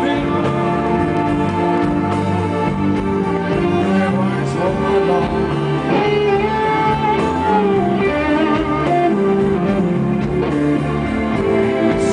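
Blues band playing live: an instrumental passage led by guitar, with bent notes over the band.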